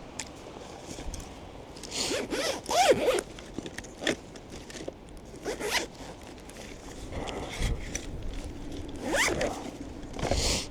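Short rasping, sliding strokes in several bursts, the loudest about two to three seconds in and another pair near the end, like a zipper being pulled.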